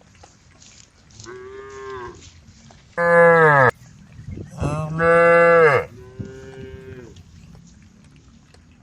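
Cows in a herd mooing, about four long moos one after another. The two loudest come about three and five seconds in, deeper than the fainter, higher moos around them.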